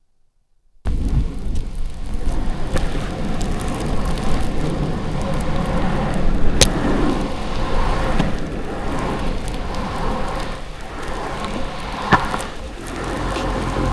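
Longboard on 85 mm Orangatang Caguama urethane wheels rolling over pavement: a steady rolling rumble that starts suddenly about a second in, with two sharp clicks from bumps or cracks in the surface.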